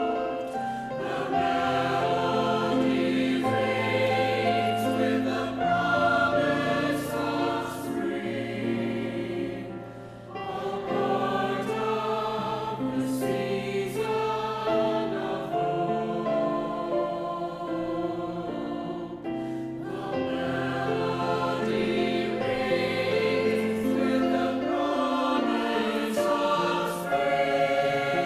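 A choir singing in sustained chords, with short breaks between phrases about ten and twenty seconds in.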